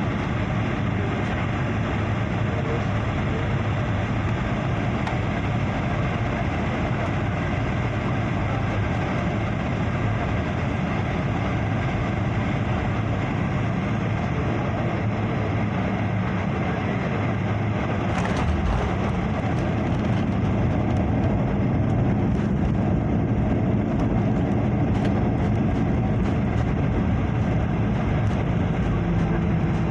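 Steady engine and airflow noise inside a jet airliner's cabin. A short sharp sound comes about 18 seconds in, after which the noise grows a little louder.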